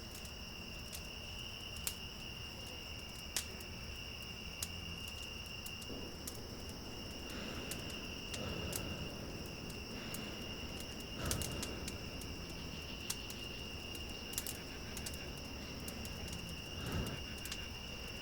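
Insects trilling steadily in a continuous high-pitched drone, with scattered faint clicks and a few soft rustles.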